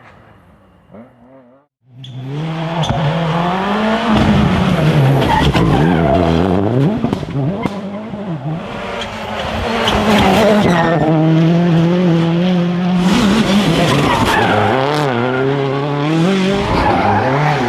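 Rally car engine at full throttle, its pitch climbing and dropping again and again as it revs through gear changes and lifts off for corners. It starts faint and cuts in loud after about two seconds.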